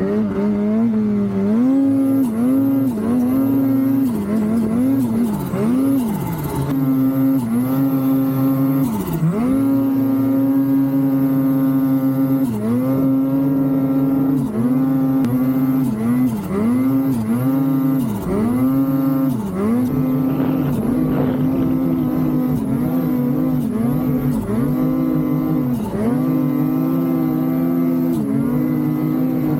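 Ski-Doo snowmobile engine running hard, its pitch repeatedly dipping and climbing back as the throttle is eased off and opened again, about every second or two.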